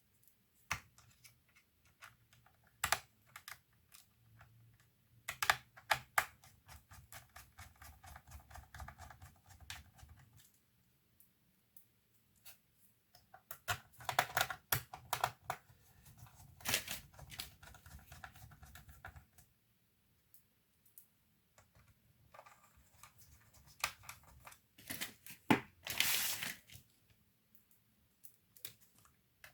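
Typing on a laptop keyboard: bursts of key clicks and taps with pauses between them.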